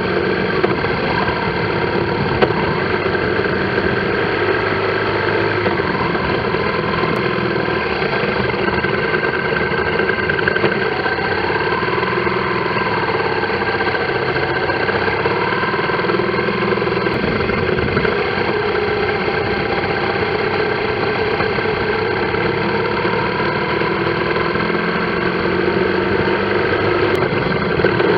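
Motorcycle engine running steadily through stop-and-go traffic, its pitch rising and falling a little as the throttle changes.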